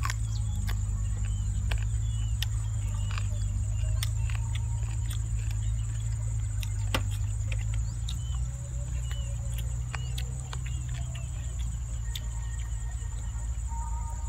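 Close-up eating sounds of boiled chicken being bitten, chewed and gnawed off the bone, heard as many short sharp clicks and crunches. Under them run a steady low rumble and a constant high insect drone.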